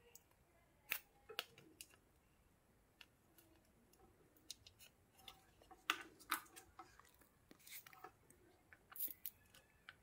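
Scattered small sharp clicks and taps, irregularly spaced, from soldering tools working the pins of a component onto a home theater amplifier's circuit board.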